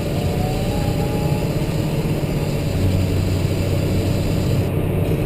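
Cat 988H wheel loader's diesel engine running steadily under load at about 1900 RPM on the throttle lock, heard from inside the cab while the machine carries a full bucket. A faint whine rises briefly about a second in.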